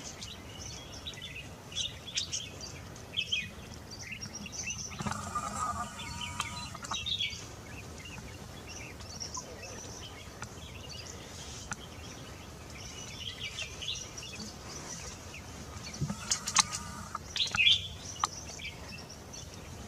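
Wild birds chirping and calling, short high notes scattered throughout and busiest near the start and end, over a steady outdoor background hiss.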